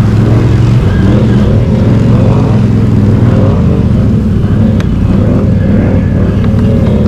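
Can-Am Outlander ATV engine running steadily at low revs, a low engine note with slight shifts in pitch.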